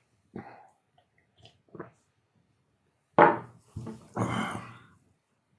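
A man's breath and throat sounds in a small room: small mouth noises, a sharp throat sound about three seconds in, then a breathy sigh-like exhale.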